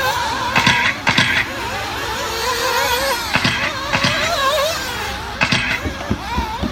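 Several nitro RC buggies' small glow-fuel two-stroke engines running on the track, their pitches wavering up and down as they accelerate and brake, with louder high-pitched bursts of revving every second or two as cars pass close.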